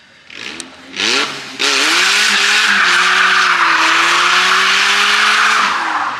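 A car's engine revs in short rising blips, then holds at a steady high pitch for about four seconds while the tyres squeal under wheelspin, and cuts off abruptly near the end.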